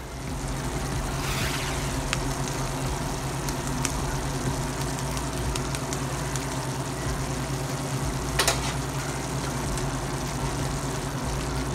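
Marinated beef fajita strips and bell peppers sizzling steadily in a frying pan, with a few sharp clicks; the loudest click comes about eight and a half seconds in.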